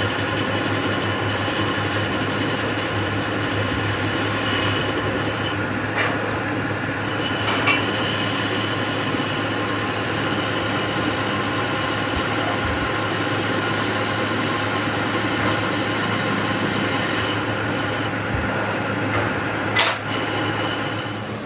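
Metal lathe running while a tool cuts the motorcycle wheel hub: a steady machine hum with a high, squealing whine and scraping from the cut. A few sharp ticks come about six, eight and twenty seconds in.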